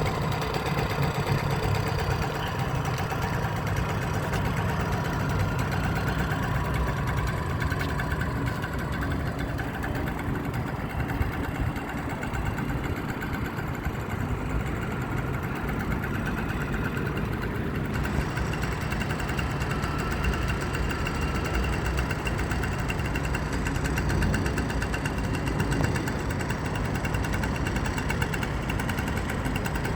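Small petrol engine of a motorized bicycle running steadily.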